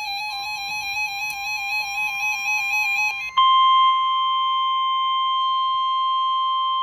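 NOAA Weather Radio emergency alert: a warbling electronic data burst of the SAME alert header ends about three seconds in. It is followed at once by the loud, steady single-pitch warning alarm tone (the 1050 Hz weather radio tone), which holds to the end.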